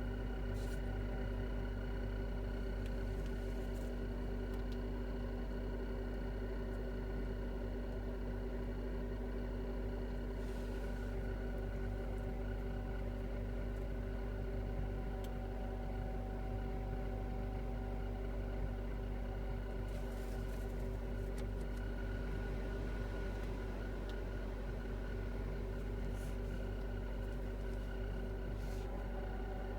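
Kia Ceed ED heater blower whistling with a steady high whine over a low hum. The owner says the whistle and squeak come when the heater is switched on after the car has stood a long time in the frost.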